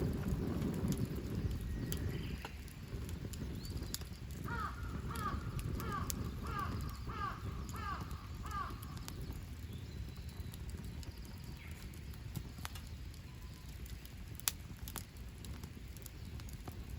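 Campfire burning with a low rumble and scattered sharp crackles and pops. A bird calls about seven times in quick succession, roughly two short falling notes a second, from about four and a half to nine seconds in.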